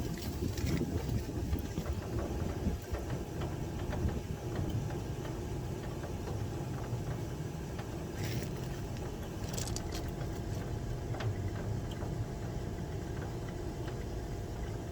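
A steady low machine hum, with two brief scraping sounds about eight and ten seconds in.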